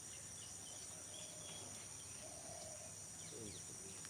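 Steady high-pitched insect chorus in a field, with scattered brief bird chirps.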